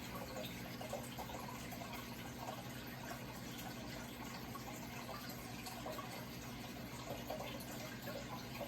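Running water trickling and splashing steadily with small bubbling sounds, over a low steady hum.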